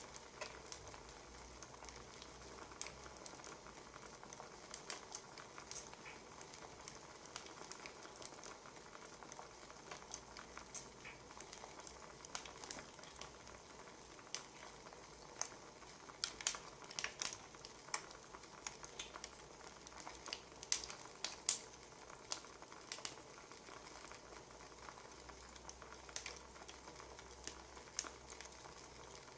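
Wood fire crackling: a steady soft hiss with irregular snaps and pops, which come thicker and louder about halfway through.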